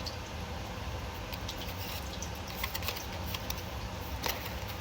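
Faint scattered clicks and light rustles of tarot cards being handled, over a steady low background hum.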